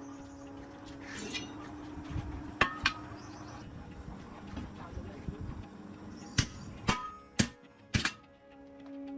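About six sharp metal clanks from tools at work on a truck wheel, two close together near the middle and four in quick succession toward the end, over steady background music.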